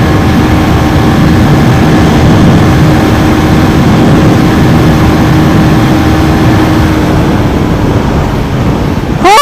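KTM Duke 390 single-cylinder motorcycle riding at speed, its engine note held steady under a heavy, loud wind rush on the helmet microphone. The engine tone fades near the end, and a short sharp sweep in pitch comes right at the close.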